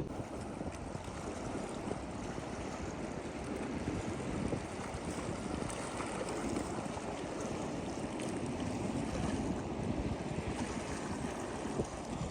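Steady rush of sea waves washing on the beach, with wind on the microphone.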